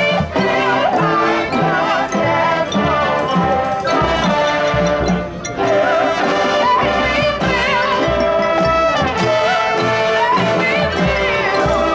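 High school marching band playing: brass carrying sustained, moving melody lines over percussion hits on a steady beat.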